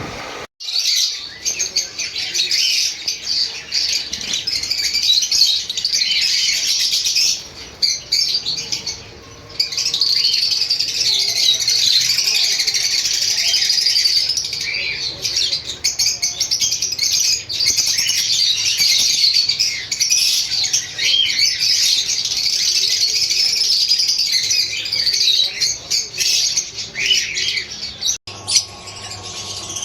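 Pet lovebirds chattering: dense, continuous high-pitched chirps and squawks, with a brief lull about eight seconds in.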